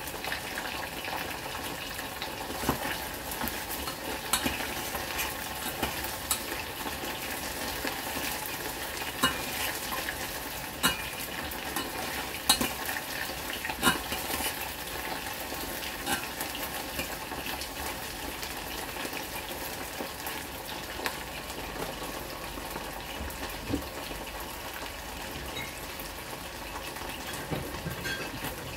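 Pork pieces frying with a steady sizzle in a stainless steel pot, stirred with a metal utensil that scrapes and clinks against the pot. The clinks are irregular and thin out in the last third.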